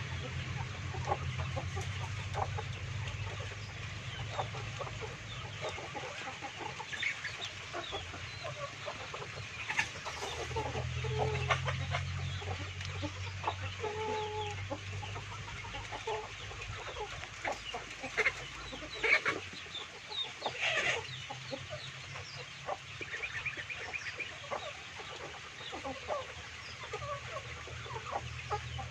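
A flock of free-ranging chickens clucking and calling softly, with short scattered clucks and a few louder squawks around the middle. A low steady hum sits underneath and drops out for a few seconds now and then.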